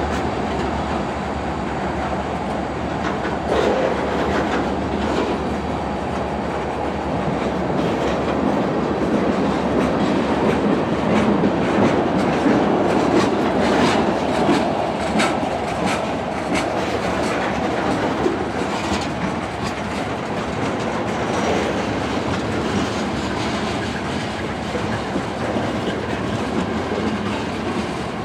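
Freight train rolling by, its wheels clicking over rail joints over a steady rumble.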